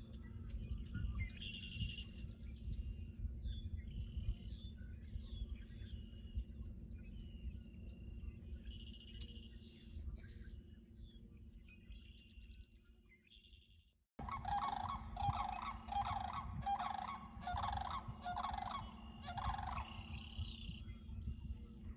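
Birds calling in a wetland: many short, high chirps and calls over a steady low rumble. After an abrupt cut about 14 seconds in, a run of louder, lower-pitched repeated calls joins them, coming several to the second.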